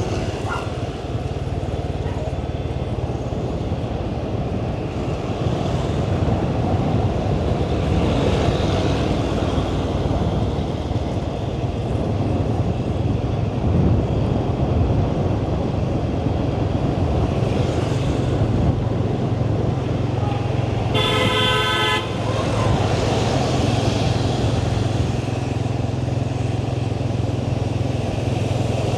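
Motorbike engine running steadily with road and wind noise while riding, and a vehicle horn honking once for about a second a little after two-thirds of the way through.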